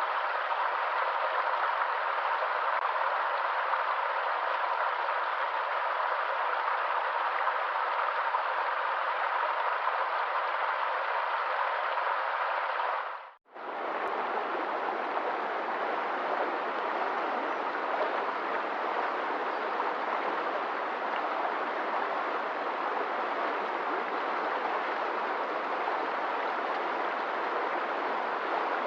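Flowing water, a steady even rush: one recording for nearly half, then a quick fade out and in to a second, fuller water recording with more low rumble.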